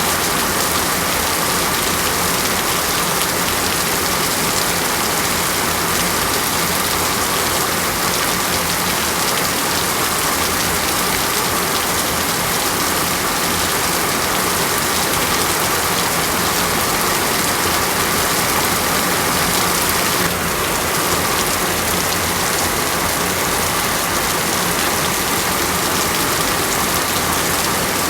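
Steady rain falling on a surface: a dense, even hiss that holds the same level throughout, with a slight shift in texture about twenty seconds in.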